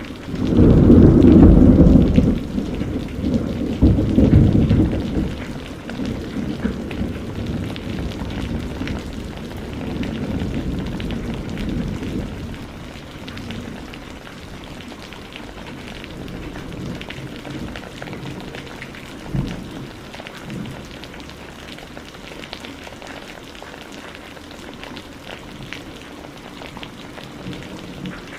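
Steady rain with a roll of thunder. The thunder rumbles loudly in two swells over the first five seconds and then dies away over about ten seconds, while the rain keeps falling. A brief low thump comes about two-thirds of the way through.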